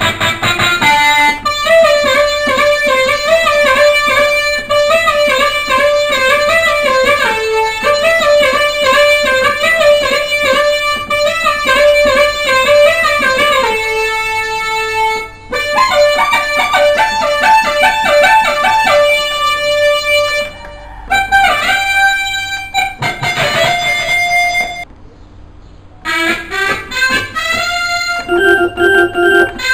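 Electronic keyboard playing a melody on a guitar-like plucked-string voice. The playing dips briefly about 25 seconds in, then resumes.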